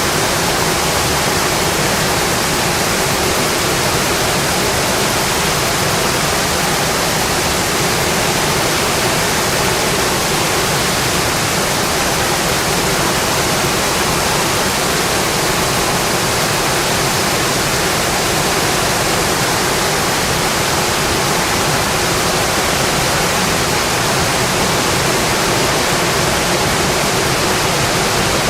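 Rain falling steadily on a windowpane, an even unbroken hiss.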